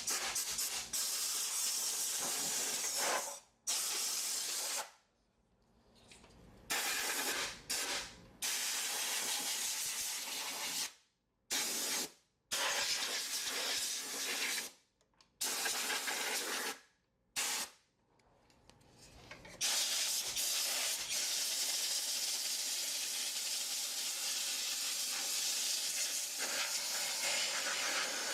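Compressed-air blow gun blasting accumulated dust out of a refrigerator's condenser coil. It comes as a loud hiss in repeated bursts that start and stop abruptly, the last held for about nine seconds.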